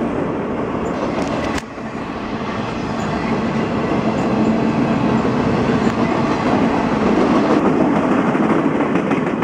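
Freight train's loaded flatcars rolling past at close range: a steady rumble of steel wheels on the rails, with evenly spaced clacks over the rail joints toward the end.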